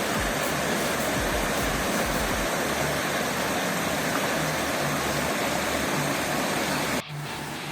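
Waterfall rushing: a loud, steady noise of falling water that cuts off suddenly near the end.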